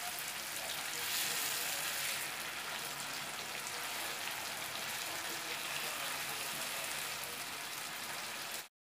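Hilsa fish steaks in spice paste sizzling in hot oil in a frying pan, a steady hiss that cuts off suddenly near the end.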